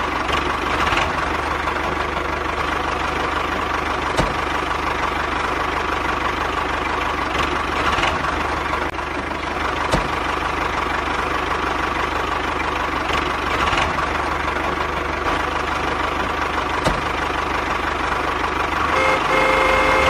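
A machine runs with a steady, engine-like drone and an even whine near 1 kHz. A few sharp clicks come through it, and a short steady tone sounds near the end.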